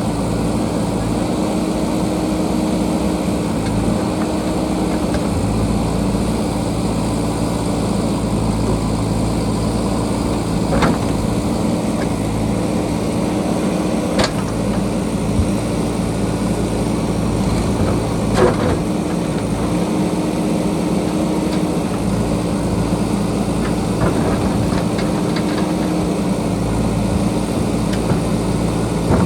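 JCB backhoe loader's diesel engine running steadily, with a few sharp knocks as it digs.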